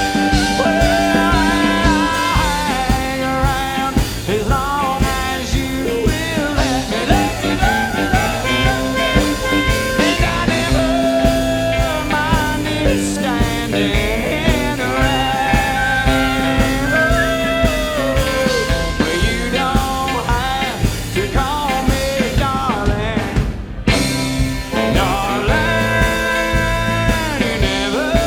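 Live band playing rock-flavoured country music, with drums keeping a steady beat under guitars. There is a momentary drop-out near the end.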